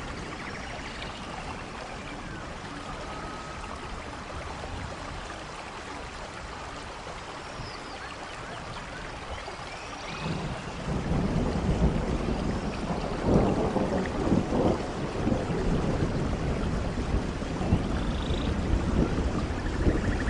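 Steady rain in a rainforest, with a few short high calls over the hiss. About halfway a low rumble of thunder sets in and the rain grows louder.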